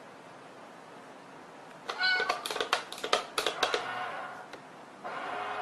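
A domestic cat meows once, about two seconds in. A quick run of sharp clicks and knocks follows for about a second and a half.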